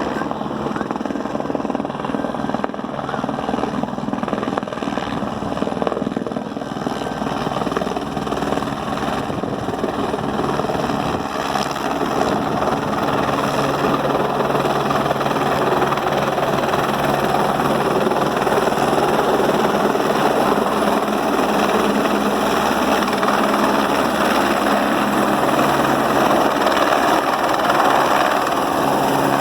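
Helicopter running close by: a steady rotor and engine din with a constant hum, growing louder about halfway through.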